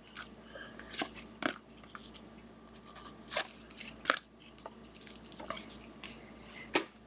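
Football trading cards being handled: a scatter of sharp clicks and soft rustles of card stock and plastic, several of them crisp snaps a second or so apart.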